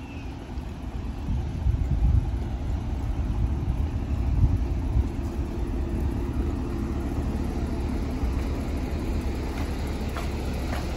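Low, steady rumble of a vehicle engine running nearby, with louder low surges about two and four and a half seconds in.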